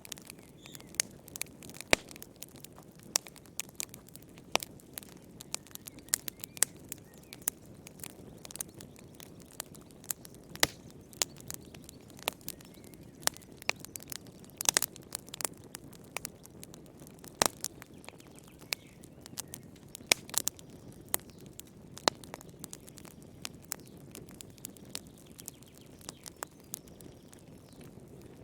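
Wood fire crackling in a fireplace: irregular sharp pops and snaps, several a second, over a low steady rush of flames.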